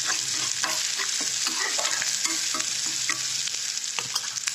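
Chopped onion sizzling in hot oil in a kadai while it is stirred, with frequent light scrapes and taps of the stirring utensil against the pan.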